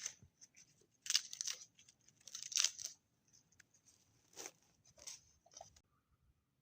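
Crunching footsteps on hard, frozen snow, five or six steps at an uneven pace, each with a dry squeak.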